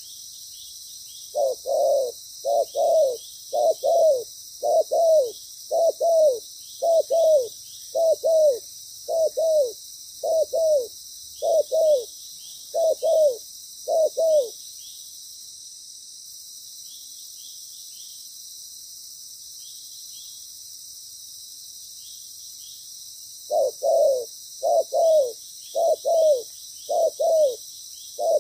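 Spotted dove cooing in a long run of quick doubled coos, about one pair every second. It falls silent about halfway through, then starts the series again near the end.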